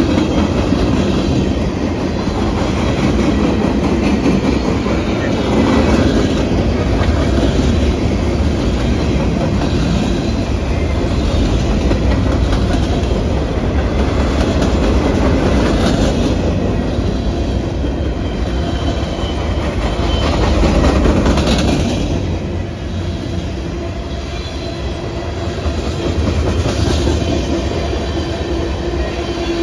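A train passing close by: its cars rolling steadily over the rails with a constant loud rumble of wheels on track.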